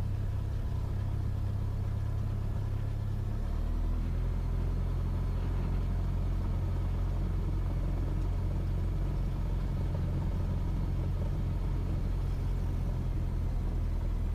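Cessna 172S's four-cylinder Lycoming engine running at low power, a steady low hum that drops to a lower speed about three and a half seconds in.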